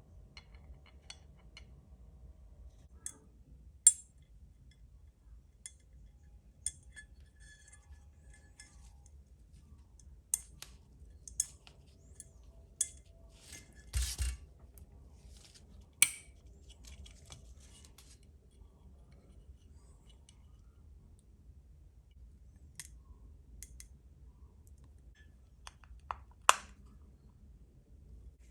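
Scattered sharp clicks, snips and clinks of small hard parts being cut and handled while a model kit is assembled, a dozen or so spread out with long gaps between them, over a low steady hum.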